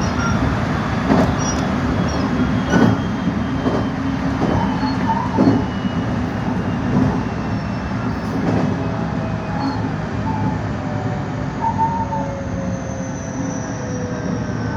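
Electric commuter train slowing on its approach, its wheels knocking irregularly over rail joints and points. A motor whine falls slowly in pitch as it brakes, with a faint wheel squeal.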